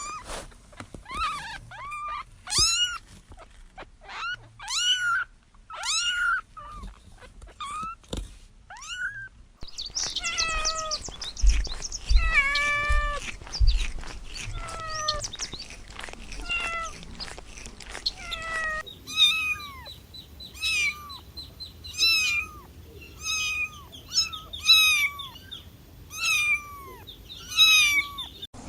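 Kittens meowing over and over, in short, high-pitched meows that come about once a second. The background changes twice.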